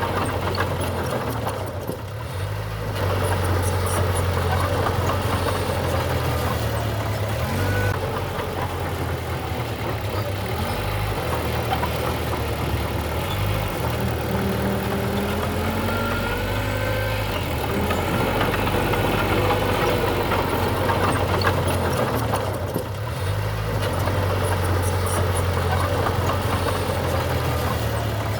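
Diesel engine of heavy construction machinery running steadily, with small rises and falls in level as it works.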